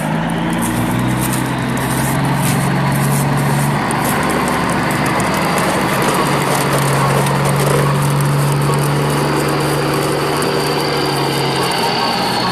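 Truck engine running steadily, its pitch shifting down and up a few times, with light rapid clicking over it.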